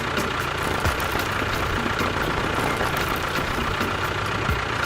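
A small motor running steadily, with a faint steady whine over it.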